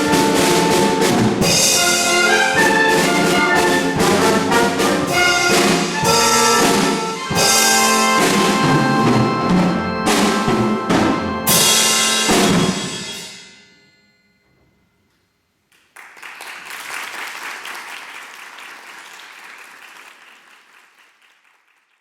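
An orchestra with brass and percussion plays its closing bars with sharp accented hits, ending on a final chord that dies away about 13 seconds in. After a short silence, audience applause breaks out about 16 seconds in and gradually fades.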